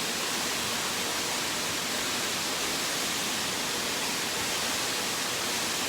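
Waterfall heard from just behind the falling water: a steady, even rushing of water.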